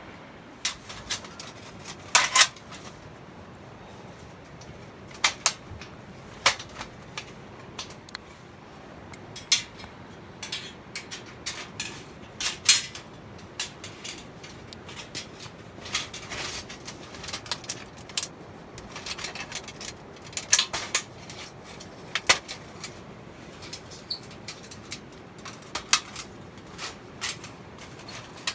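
Irregular metallic clinks and knocks, like camp cookware and utensils being handled, some with a brief ring, over a steady low hiss.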